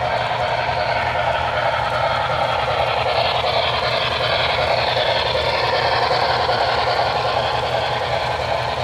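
HO scale model trains running on a layout, a steady mechanical train noise with no break or change.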